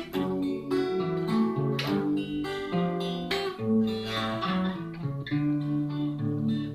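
Acoustic guitar playing an instrumental interlude between verses of a song, with rhythmic plucked and strummed chords.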